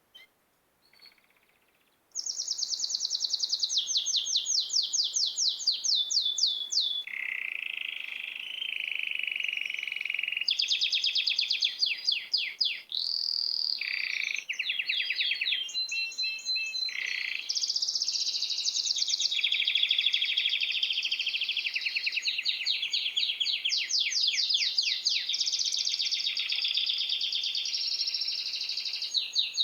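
A songbird singing a long, continuous run of rapid trills and quickly repeated high notes, changing phrase every few seconds, starting abruptly about two seconds in.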